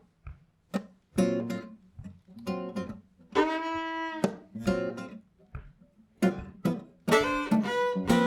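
Acoustic guitar playing a song's introduction: separate plucked chords with short pauses between them, one chord held for about a second near the middle, and the playing getting busier near the end.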